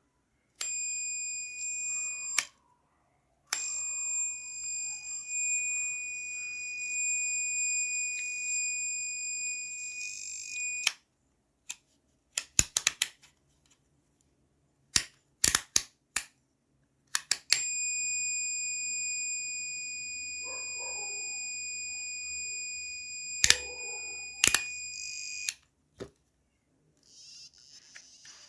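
DT830D digital multimeter's continuity buzzer sounding a steady, high-pitched beep three times: briefly near the start, then for about seven seconds, then for about eight seconds. Sharp clicks come in the gaps. The buzzer, repaired for giving no sound, is being tested.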